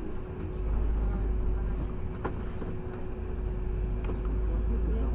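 Cabin sound of a LiAZ 6213.65 articulated city bus under way: low engine and road rumble that swells about half a second in, with a steady hum and a couple of faint knocks.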